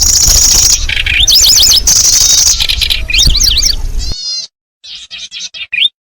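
Kecici belalang bird call played as a lure recording: loud, fast, high buzzy trills and rapidly warbled up-and-down notes over a low rumble. After a brief gap about four seconds in, softer chirping phrases follow, the last ending in a rising note.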